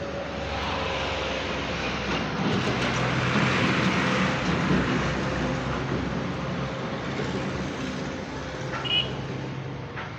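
A vehicle engine running steadily. It grows louder about two seconds in and eases off again after about five seconds.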